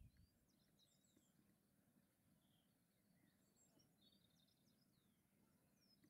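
Faint songbird chirps and short twittering phrases in a few scattered clusters, over a quiet background.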